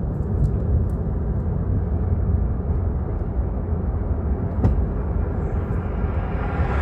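Steady low rumble of a vehicle in motion: road and engine noise heard from inside, with a faint click partway through.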